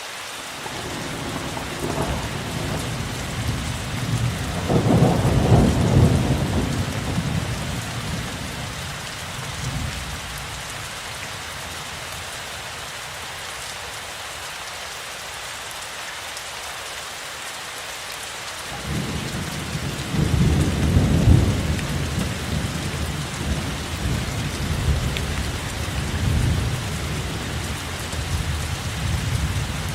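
Steady rain with two long, low rolls of thunder. The first builds from the start, is loudest about five seconds in and fades out by about ten seconds. The second begins about nineteen seconds in and peaks soon after.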